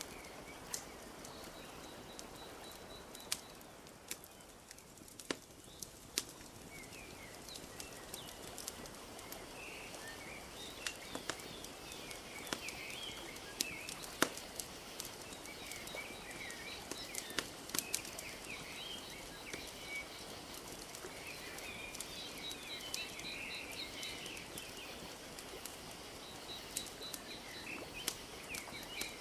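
Wood fire crackling with frequent sharp pops over a soft, steady wash of lapping lake water. Small birds chirp and twitter throughout, busier from about a third of the way in, with a rapid ticking trill now and then.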